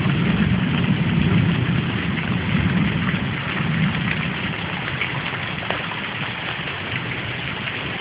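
Steady heavy rain, with a low rumble in the first few seconds that gradually fades.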